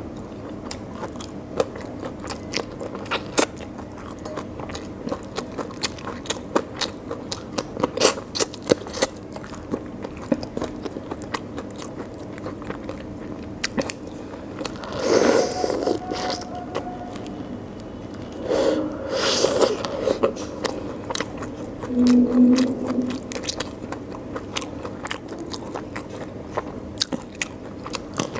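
Close-miked eating of rice and curry by hand: steady wet chewing and lip smacking made of many sharp mouth clicks, with three louder, longer bursts in the middle.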